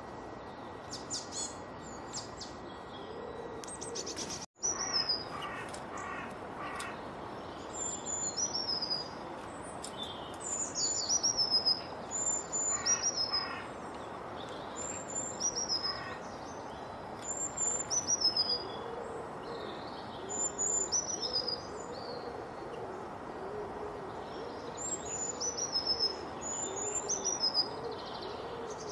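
Several birds singing: a bird repeats high whistled notes that slide downward, in short phrases every second or two, with clusters of quicker chirps and a run of low hooting notes beneath. There is a steady hiss throughout, and the sound drops out for a moment about four and a half seconds in.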